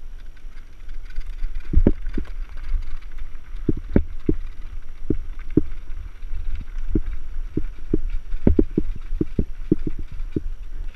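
Mountain bike jolting over rough trail: irregular low thuds and knocks from the bike and camera mount, several a second at times, over a faint hiss.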